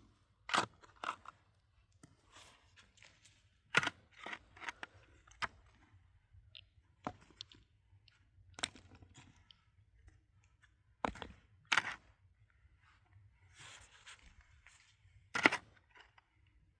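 Irregular sharp knocks and crunches, a second to a few seconds apart, with faint crackling between them.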